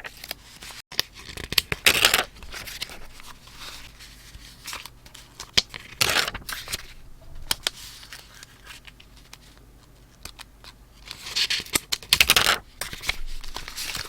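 Paper being handled and torn close to the microphone, in three bursts about 2 s in, 6 s in and a longer one near the end, with light clicks and taps between them.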